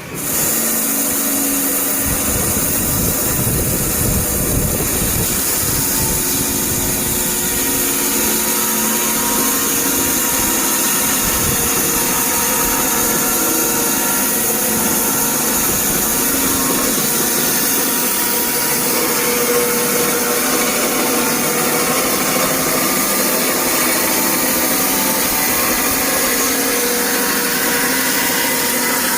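Wood-Mizer portable band sawmill running steadily, a loud, even machine noise with a strong high-pitched hiss.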